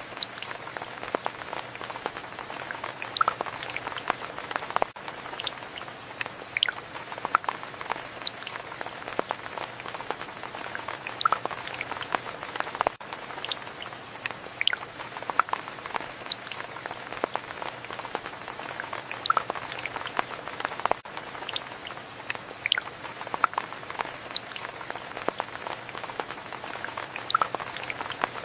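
Steady rain, with many individual drops pattering and ticking close by over an even hiss.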